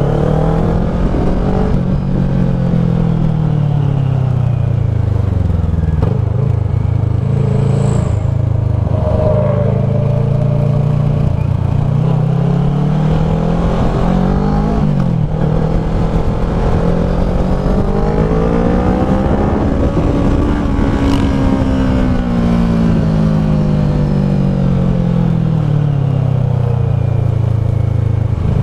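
Kawasaki ER-6f's parallel-twin engine through a Leo Vince SBK slip-on exhaust, its revs climbing and falling again and again over several seconds at a time, with one sharp drop about halfway through.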